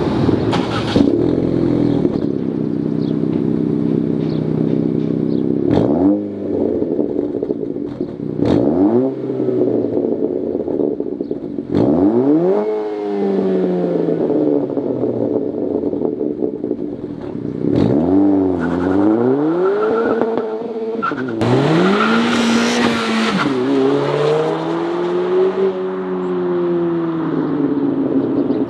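2023 Acura Integra's engine through a Thermal R&D 3-inch stainless straight-through exhaust with Helmholtz-chamber mufflers. It idles steadily for a few seconds, then is revved in several short blips, the pitch rising and falling each time, with a longer rise and fall near the end.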